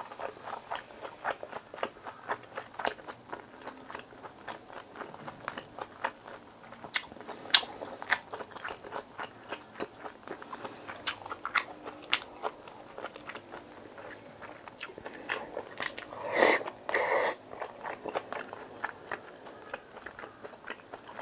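Close-miked chewing and mouth sounds of a person eating, a steady run of small wet clicks. There are a few sharper clicks now and then, and a louder rustling burst about sixteen seconds in.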